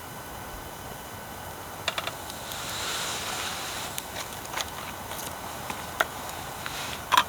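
Wood fire crackling: scattered sharp pops, irregular and a second or two apart, the loudest a double pop near the end, over a steady hiss.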